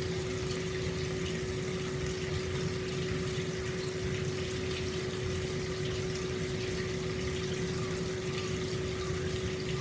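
Hot spring water flowing steadily into an open-air bath, a constant pouring splash with a steady low hum underneath.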